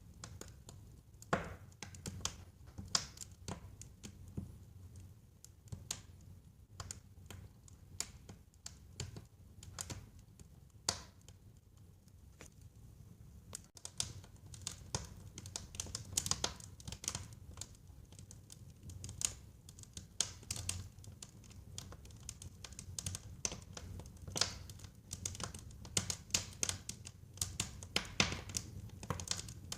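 Wood fire in a fireplace crackling: irregular sharp pops and snaps over a faint low rumble of the flames, the pops coming thicker in the second half.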